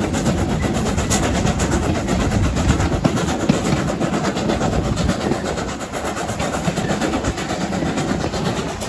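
Steam-hauled heritage train running along the line, heard from the carriage: a steady noise of wheels on rails with rapid clicking and clatter.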